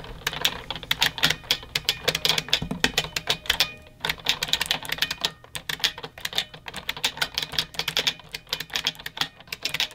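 Mechanical keyboard clacking under fast typing, with brief pauses about four and five and a half seconds in.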